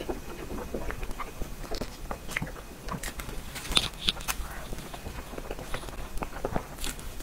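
Close-miked eating sounds: chewing soft matcha mousse cake with scattered wet mouth clicks and lip smacks, and a few sharper clicks about four seconds in.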